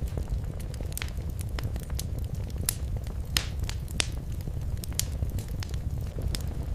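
Fireplace fire burning, a steady low rumble under irregular sharp crackles and pops, a few louder snaps near the middle.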